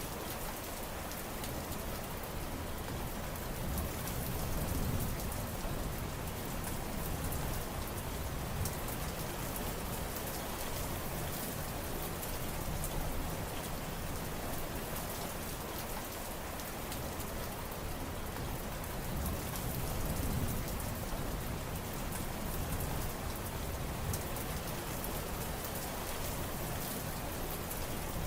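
Steady rain falling, an even hiss of many drops with fine pattering and a low rumbling wash that swells gently now and then.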